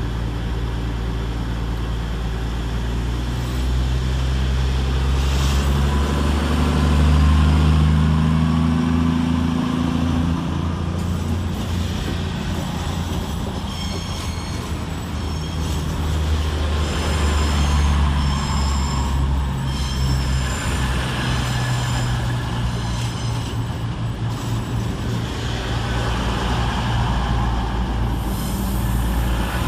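A CrossCountry Class 220 Voyager and Class 221 Super Voyager, diesel-electric multiple units, pulling out together with their underfloor diesel engines throttling up. The engine note rises twice as the units gather speed, and a high wheel squeal comes and goes through the middle of the departure.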